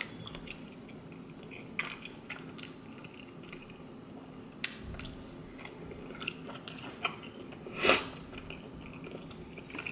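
Soft mouth sounds of a person chewing chewy spicy noodle rice cakes (noodle tteokbokki), with a few faint clicks and one louder, brief noise about eight seconds in.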